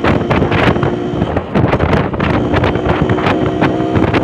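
Yamaha RX-King two-stroke motorcycle engine running under way, with heavy wind noise on the microphone.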